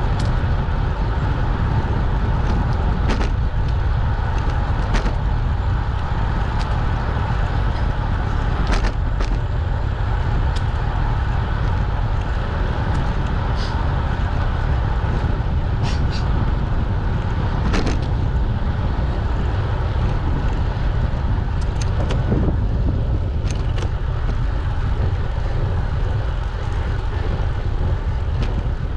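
Steady wind rush and rumble on the microphone of a camera riding along on a moving bicycle, with scattered sharp clicks and rattles.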